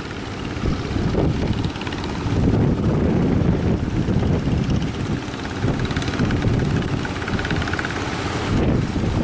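Fishing boat engines running with a steady, rapidly pulsing low rumble, while strong wind buffets the microphone.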